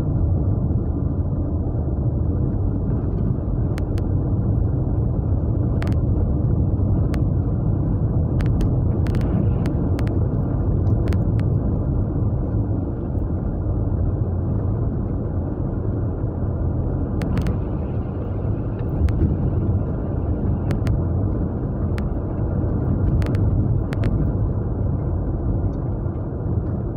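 A car with a Japanese V6 engine, heard from inside the cabin while driving: a steady low rumble of engine and road noise, with a few faint clicks.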